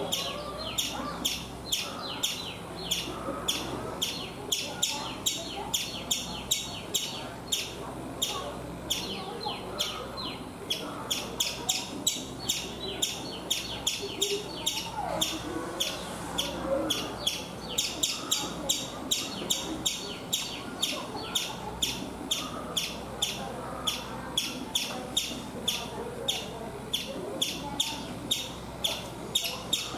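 Indian palm squirrel calling: a sharp, high chirp repeated steadily, about two a second.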